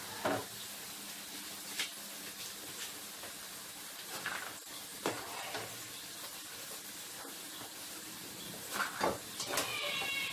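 Potato fries sizzling in hot oil in a frying pan, a steady hiss, with a metal spoon stirring and knocking against the pan a few times.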